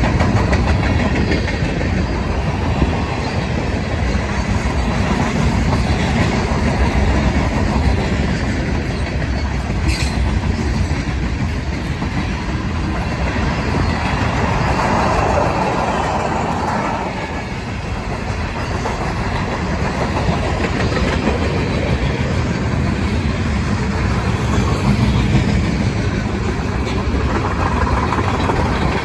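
Freight train rolling past, a steady rumble of wheels on the rails with clickety-clack over the rail joints.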